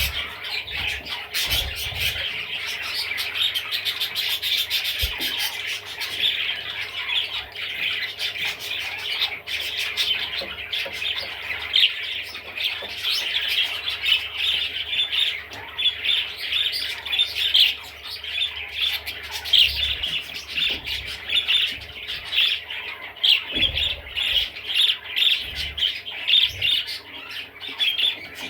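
Budgerigar warbling and chattering, a fast unbroken stream of short chirps and squawks.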